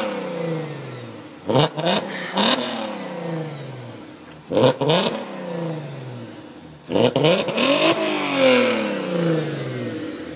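A car engine revved three times, each sharp blip followed by the pitch sinking away over a couple of seconds as the revs drop.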